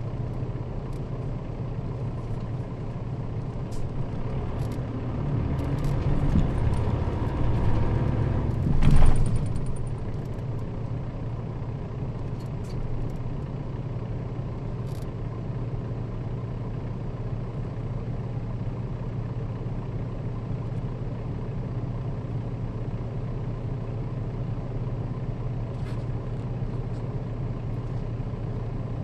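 Nissan Diesel KL-RA552RBN city bus heard from inside, its diesel engine running with a steady low hum. The sound swells for a few seconds, then a short sharp burst of air hiss comes about nine seconds in, typical of the bus's air brakes, and the engine settles back to a steady low running sound.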